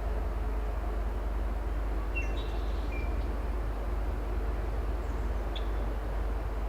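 Steady low engine rumble of an excavator working some way off, with a constant hum. A few short bird chirps come about two to three seconds in and once more near the end.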